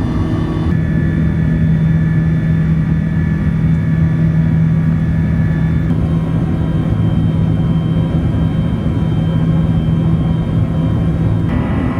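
Steady engine and airflow noise inside the cabin of an Airbus A380-800, with a strong low hum and several steady tones. The tones change abruptly about a second in, about halfway through and near the end.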